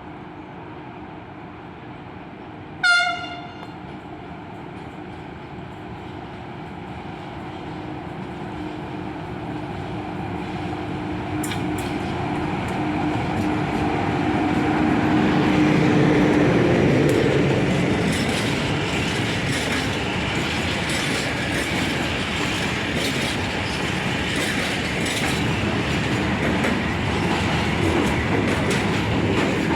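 Siemens ES64 U2 Taurus electric locomotive gives one short horn blast about three seconds in. It then approaches slowly with a steady humming tone, growing louder. After it passes, container wagons roll by with the clickety-clack of wheels over rail joints.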